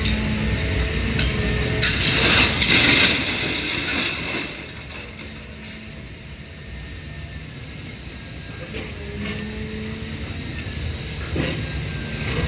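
Idromec T 650 CLS scrap metal shear baler running with a steady machine hum and a held low tone. About two seconds in, scrap metal grinds and clatters for roughly two seconds. The machine then goes quieter for several seconds before the hum builds again near the end.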